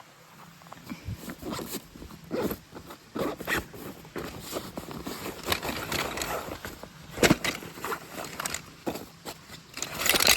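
Irregular rustling and short knocks of things being handled, with one sharper knock about seven seconds in.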